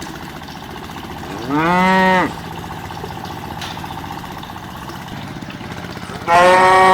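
Cow mooing twice: a short moo rising in pitch about a second and a half in, then a longer, steady moo starting near the end. A small motor hums steadily underneath.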